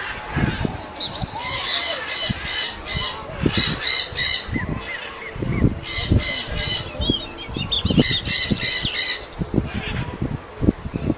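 Shrill squawking animal calls in four bursts of rapid repeated notes, each about a second long, over irregular low thumps.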